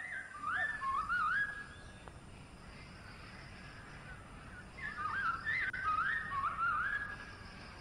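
A bird singing two phrases of whistled notes that slide up and down, the first at the start and the second about five seconds in, over a faint steady hiss.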